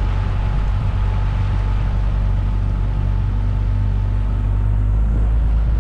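Outboard motor of an inflatable boat running steadily under way, a low even drone with water and hull noise over it; its note shifts and grows a little louder about five seconds in.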